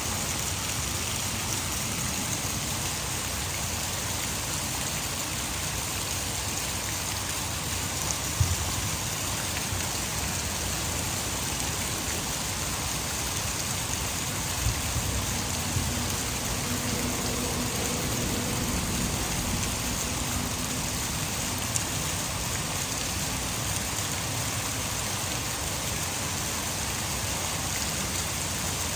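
Heavy rain falling steadily, an even hiss, mixed with the constant rush of water falling from a nearby hydroelectric dam. A few louder single taps of drops stand out.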